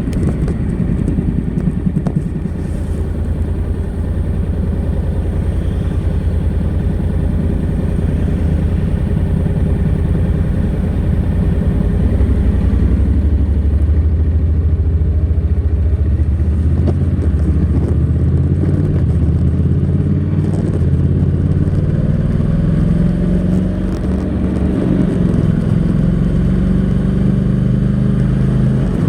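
Honda NC700X's 670 cc parallel-twin engine running under way through its stock exhaust. Its pitch climbs steadily through the second half, drops briefly near the end, then climbs again.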